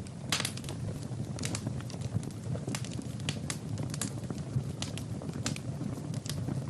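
Fire crackling in a fireplace: irregular sharp pops and snaps over a low, steady rumble of the flames.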